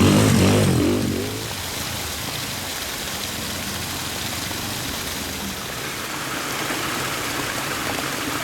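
Steady hiss of heavy rain, with a motorcycle engine running underneath, loudest in the first second.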